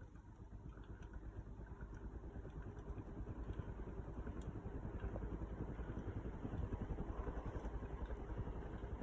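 Westinghouse Jet Plus 42-inch ceiling fan running in reverse, a low rumbling whoosh of the blades with a rapid even pulse that grows louder as the fan speeds up.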